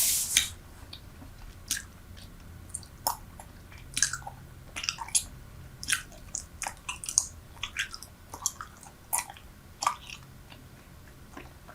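Close-miked chewing of soft, freshly chewed Super Bubble bubble gum: wet smacks and clicks at an irregular pace, roughly a second apart, after a short breathy rush right at the start.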